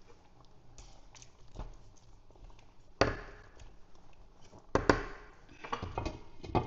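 Kitchen cookware clatter: a sharp knock, another louder one nearly two seconds later, then a run of lighter clinks and knocks.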